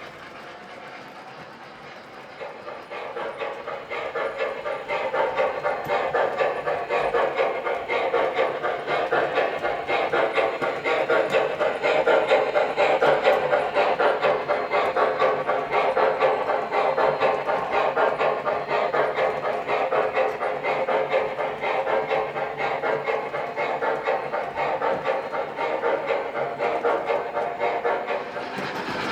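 Model train running on the track with a dense, rapid clatter of wheels on rail, growing louder over the first ten seconds or so as it approaches and then running on steadily.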